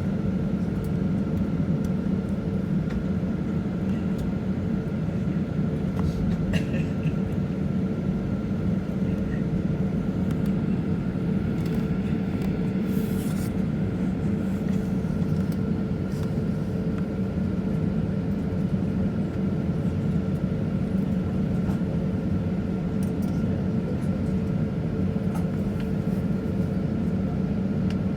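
Steady cabin noise of an Airbus A320neo with its engines running: an even low rumble with a couple of constant tones through it, and a few faint clicks.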